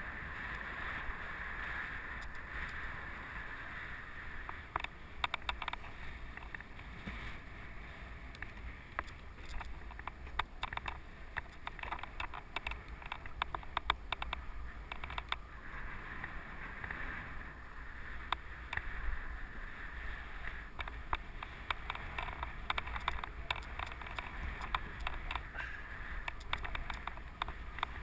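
Mountain bike rolling along a dirt trail: steady tyre and rushing noise, with rapid clicks and rattles of the bike over rough ground from about five seconds in.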